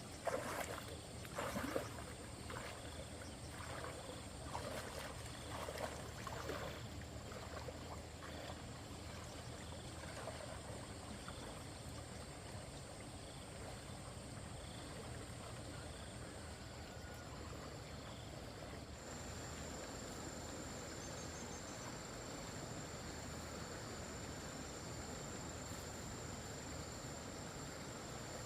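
Stream water running steadily, with insects chirring in a continuous high thin tone. A few scattered knocks in the first several seconds.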